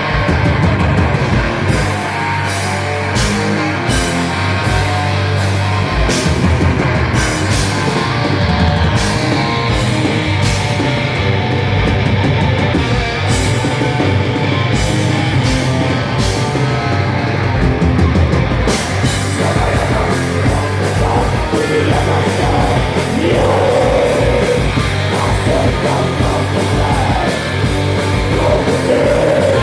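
Live rock band playing loud, with distorted electric guitars over a drum kit. About 19 seconds in the cymbals turn into a constant wash.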